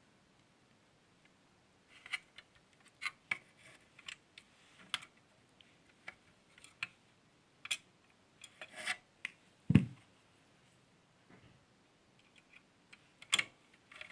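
Small irregular clicks and scrapes of a screwdriver and small metal parts as a screw is fitted and tightened on an electric iron's cord terminal, with one heavier knock just under ten seconds in.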